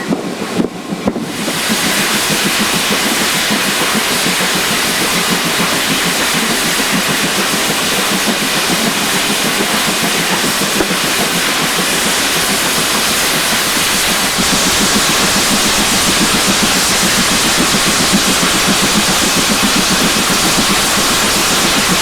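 Steam hissing steadily and loudly from GWR 2-8-0 tank locomotive No. 4277. It starts abruptly a second or two in and grows slightly louder about two-thirds of the way through.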